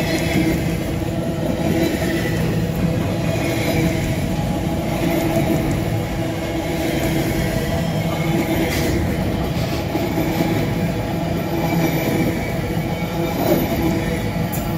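Empty freight-train flatcars rolling past at close range: a steady rumble and clatter of steel wheels on the rails, with a faint high wheel squeal now and then.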